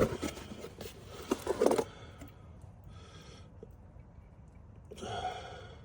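Light clicks and knocks as a new brake caliper and its packaging are handled for about two seconds. Two brief soft hissing sounds follow, one in the middle and one near the end.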